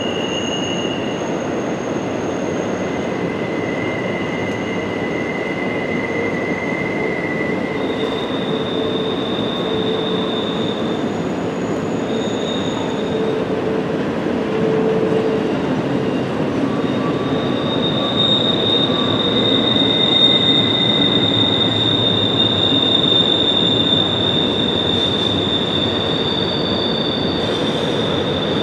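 Double-stack container cars of a CSX intermodal freight train rolling steadily over a stone viaduct: a continuous rumble of wheels on rail with high-pitched wheel squeals that come and go, one squeal growing louder and holding through the second half.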